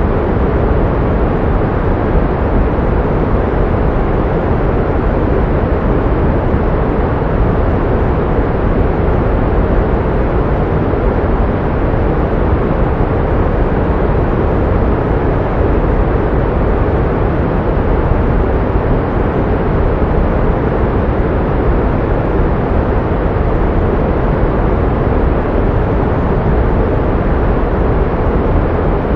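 Pink noise: a steady, even rushing noise that never changes, strongest in the low and middle range with little treble.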